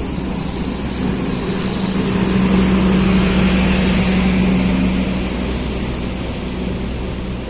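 A train passing close by: a steady low engine drone with a humming tone that swells to its loudest about halfway through and then fades.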